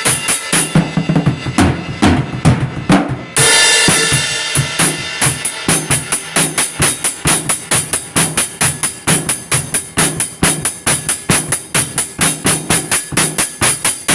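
Music with a drum kit playing: kick, snare and rimshot hits. A loud ringing hit lands about three and a half seconds in, and a steady, fast, even beat follows.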